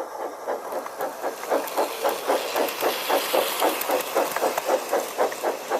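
Steam engine chuffing steadily at about four chuffs a second, over a faint hiss of steam.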